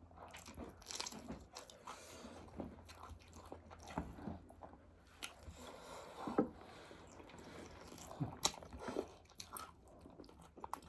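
Someone chewing and biting food close to the microphone, with scattered small crunches and clicks.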